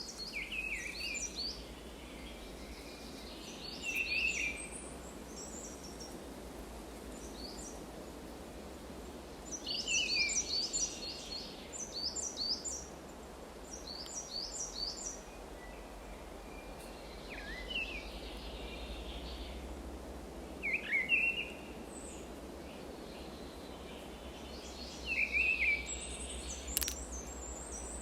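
Songbirds calling, with short bursts of quick, falling chirps every few seconds and a faster high twittering near the end, over a steady low rumble.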